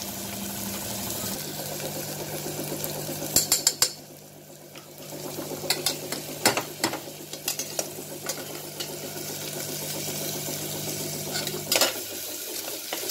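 Sliced onions and ginger-garlic paste sizzling in oil and ghee in a pressure cooker, stirred with a perforated steel ladle that scrapes and clinks against the pot several times. A steady low hum runs underneath.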